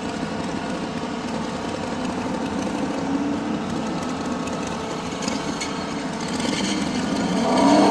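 Motorcycle engine being started and run, a bike that doesn't want to catch right away. It runs steadily, then gets louder with a rising pitch near the end.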